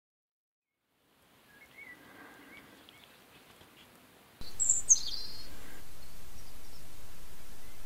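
Faint woodland ambience with soft bird chirps fades in, then a steady hiss of a trail camera's recording starts abruptly, with one short, high bird call just after it starts.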